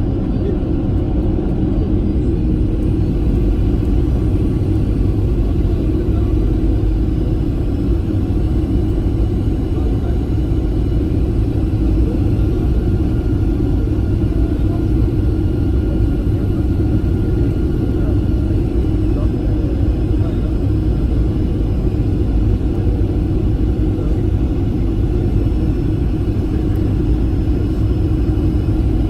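Steady drone of a Boeing 737-800's CFM56 jet engines and airflow heard inside the cabin, a constant low rumble with a steady hum over it.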